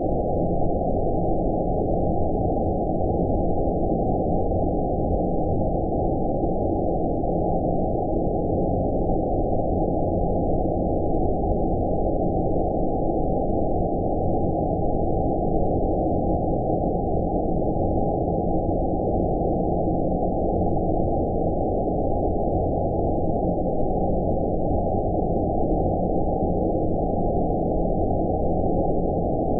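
Steady low rumbling noise, like filtered white noise with everything above the low-mid range cut away, unchanging throughout: a synthetic 'outer space' sleep ambience.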